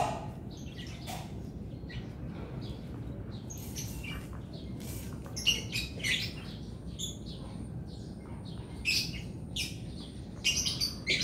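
Small birds chirping in short, quick clusters of calls over a steady low background noise.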